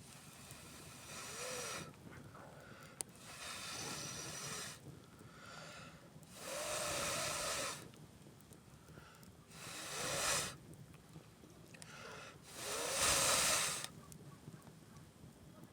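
Five hissing rushes of breath, each a second or so long, coming about every three seconds; the last two are the loudest.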